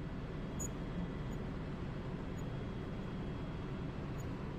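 Steady in-flight cabin noise of an Airbus H130 T2 helicopter: a constant low drone of rotor and turbine with an even hiss over it.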